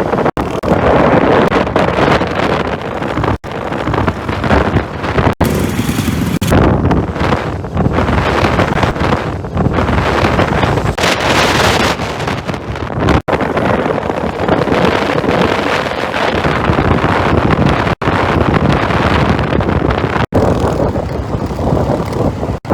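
Wind rushing over the microphone of a moving motorcycle, a loud steady rush with no clear engine note. It is broken by several abrupt cuts to silence where short clips are joined.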